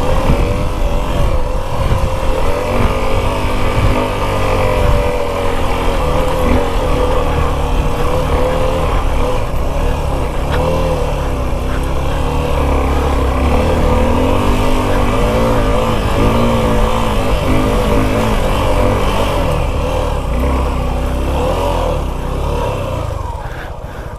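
Suzuki V-Strom 250 SX's single-cylinder engine working hard on an off-road hill climb, its revs rising and falling continuously as the throttle is worked. The engine sound drops away near the end.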